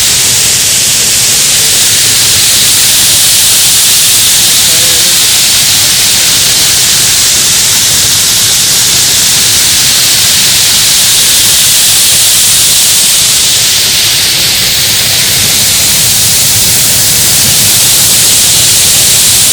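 Waterfall cascading over granite ledges close by: a loud, steady rush of falling water.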